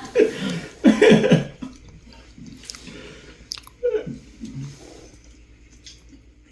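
A short burst of voice at the start, then quiet eating sounds at a meal: chewing and small clicks, with a brief vocal sound about four seconds in.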